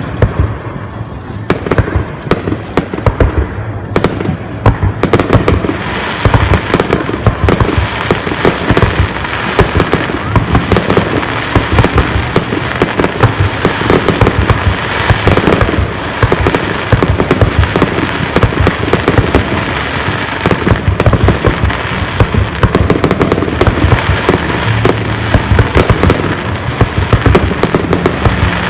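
Aerial fireworks display: rapid, irregular bangs of shells bursting overlap one another, with a dense crackle filling in from about five seconds in.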